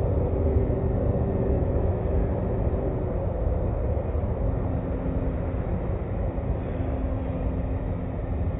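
Car wash machinery running: a steady low rumble with a droning hum that fades in and out.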